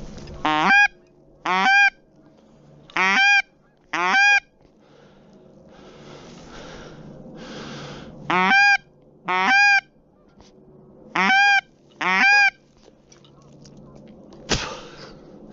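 Goose honking: eight loud, short honks, each rising in pitch, given in four evenly spaced pairs. A single sharp knock near the end.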